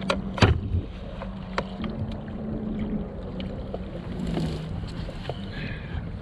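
Several sharp knocks on a kayak's hull and fittings, the loudest about half a second in, over a steady low hum and the wash of water and wind.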